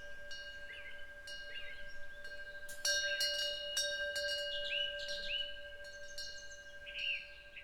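Korean temple wind bell (pung-gyeong) ringing with a long, steady tone, struck twice by its clapper about three and four seconds in. Small birds chirp and trill throughout.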